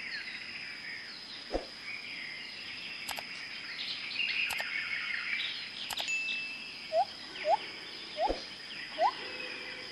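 Jungle ambience: birds chirping over a steady high-pitched insect drone, with a few sharp clicks. From about seven seconds in comes a series of short rising calls, roughly two a second.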